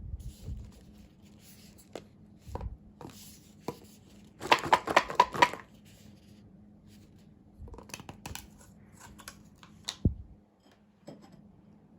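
Paper and plastic packaging of a boxed waffle set being handled and opened: scattered rustles and light knocks, with a quick run of about eight sharp crackles or snips about four and a half seconds in, and more clicks and rustles near the end.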